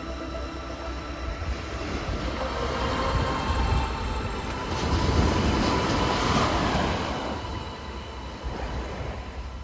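A train passing: a rumbling, rushing noise that builds to a peak about five seconds in and then fades, with a faint steady squeal over it.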